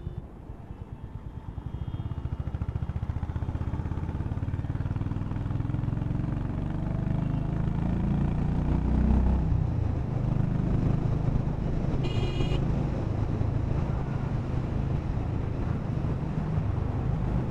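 Honda H'ness CB350's single-cylinder engine running as the motorcycle is ridden, its revs climbing for a few seconds and dropping back about nine to ten seconds in. A vehicle horn sounds briefly about twelve seconds in.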